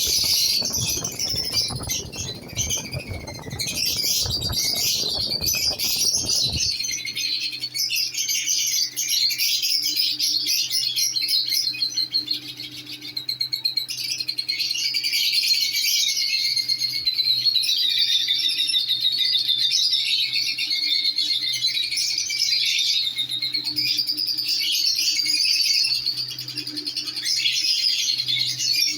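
Lovebirds chattering with continuous high-pitched twittering and chirps. A broad noise runs under the calls for about the first six seconds, then gives way to a faint steady low hum.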